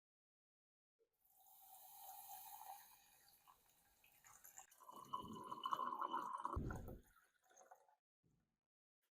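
Liquid splashing and trickling in two stretches, the second louder, with a dull knock near its end.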